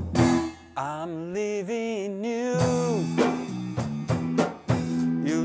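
Blues band playing live, with drums and a steady bass line; about a second in, a long wavering lead note bends up and down for about two seconds before the beat carries on.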